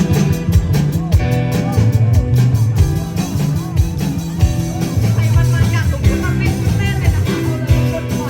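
Student rock band playing live: drums keeping a steady beat under bass and electric guitar.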